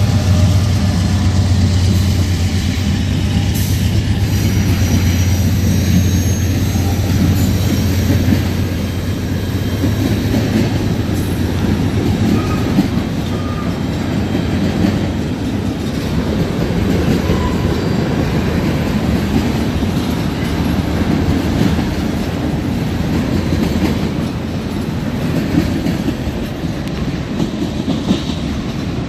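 A freight train passing close by: the trailing GE diesel locomotives drone past for the first several seconds, then a string of tank cars rolls through with a steady rumble and wheel clatter.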